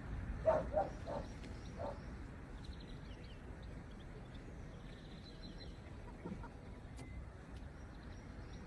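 Outdoor background noise with faint bird chirps, and four short animal calls in quick succession about half a second to two seconds in.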